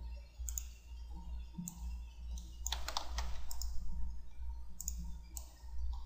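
Computer mouse clicks and a few keyboard presses, sharp and irregular, a few every second or two, over a steady low hum.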